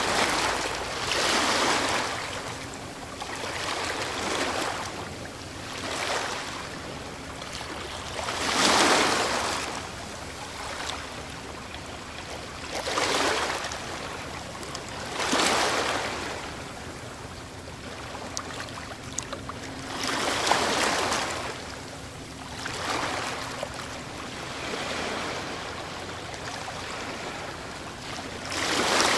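Ocean waves breaking on a shore, the surf hiss swelling and falling away every few seconds, the strongest wave about nine seconds in.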